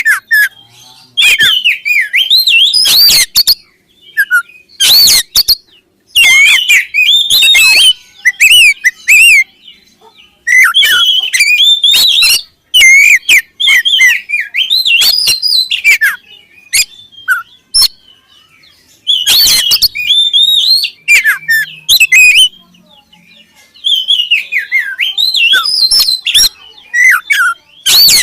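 Oriental magpie-robin (kacer) singing: loud, varied whistled phrases in repeated bursts separated by short pauses.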